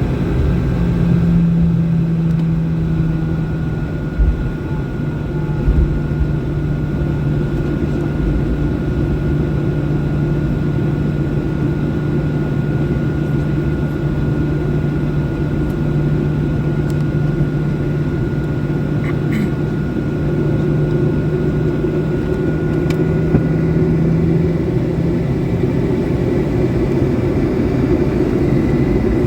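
Steady cabin noise inside a Boeing 737-800 airliner: the constant drone of its CFM56 jet engines and airflow, with a steady low hum. A few low thumps come about four to six seconds in.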